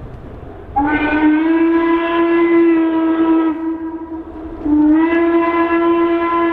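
Steam locomotive whistle, a single steady note blown in two long blasts; each blast slides up slightly in pitch as it opens, the first lasting about three seconds and the second starting about a second and a half later.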